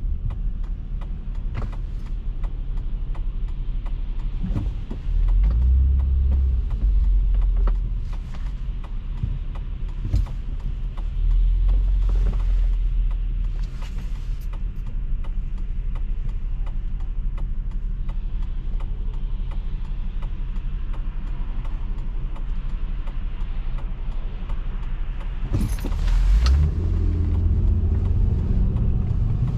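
Car driving, a low road and engine rumble that swells and eases, with scattered small clicks and rattles. There is a louder noisy burst about 26 seconds in, then heavier rumble.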